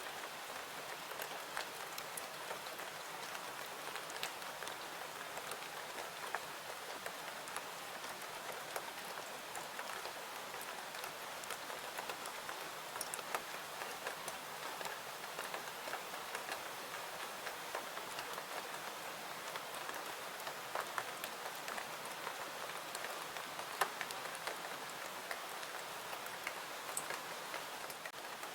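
Steady rain with a constant hiss, peppered throughout with small sharp ticks and pops, with a crackling fireplace mixed in.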